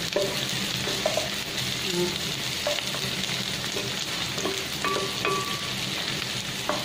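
Sliced onions and garlic sizzling in hot oil in a stainless steel pan, stirred with a wooden spatula that gives occasional light scrapes and taps against the pan.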